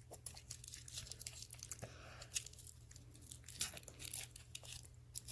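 Toy packaging being torn open and crinkled by hand, a run of irregular small crackles and rustles.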